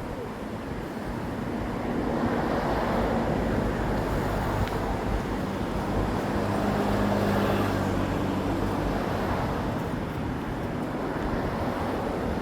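Road traffic: a motor vehicle with a low engine hum passes, swelling about two seconds in, loudest around the middle and fading toward the end.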